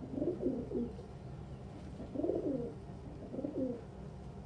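Domestic pigeons cooing: three low, warbling coo phrases, one at the start, one about two seconds in and a shorter one near three and a half seconds.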